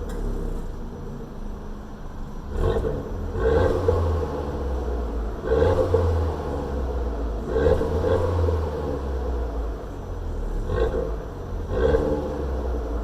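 Alfa Romeo Giulietta 1.4 TB turbo four-cylinder petrol engine running through a double exhaust with the middle resonator deleted, with about six short throttle blips rising above a steady low drone.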